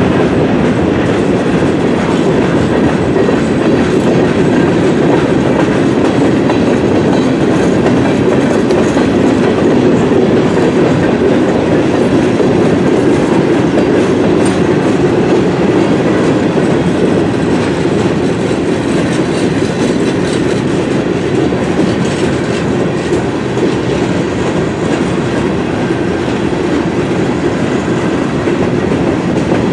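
Freight cars of a Norfolk Southern manifest train rolling past: a loud, steady rumble of steel wheels on the rails.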